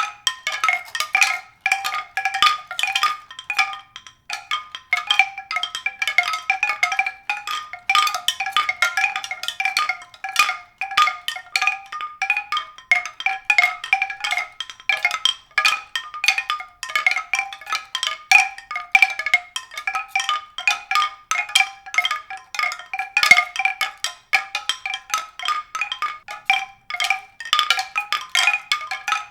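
Tuned percussion struck over and over: a rapid, irregular stream of short, bright notes at a few fixed pitches, with no steady beat.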